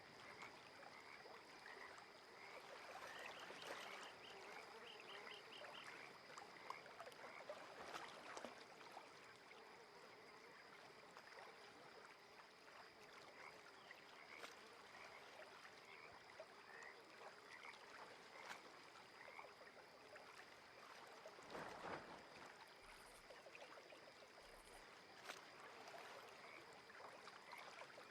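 Faint lakeside ambience: gentle water movement with soft lapping and splashing, frogs calling with short repeated chirps, and a steady high insect drone behind.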